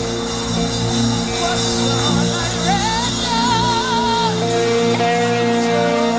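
Live gospel praise music: sustained keyboard chords, with a wavering sung melody line rising over them and a chord change near the end.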